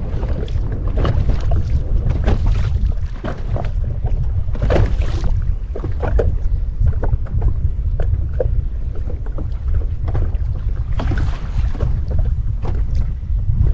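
Fishing kayak on the sea: wind rumbling on the microphone, with irregular small splashes and knocks of water against the hull.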